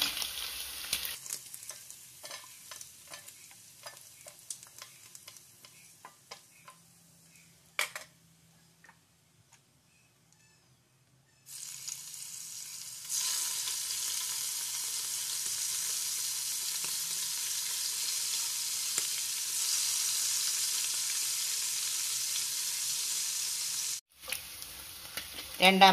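Prawns frying in hot coconut oil. First come scattered crackling pops that thin out and die away, then a steady sizzle starts about halfway through, grows louder a moment later and cuts off abruptly near the end.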